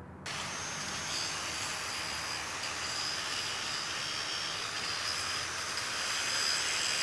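DeWalt angle grinder with a cut-off disc cutting through a metal lock: a steady high whine over a grinding hiss, starting abruptly just after the start.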